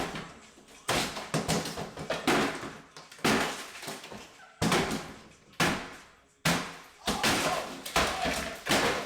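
Interior demolition by hand: a dozen or so heavy blows and crashes, each followed by rattling debris, coming about once a second and sometimes faster.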